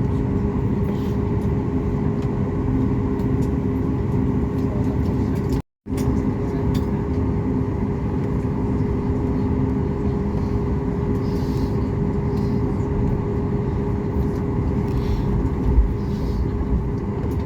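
Steady cabin noise of a Boeing 737 MAX 8-200 airliner: its CFM LEAP-1B jet engines and airflow running with a constant low hum. The sound drops out abruptly for a moment about six seconds in.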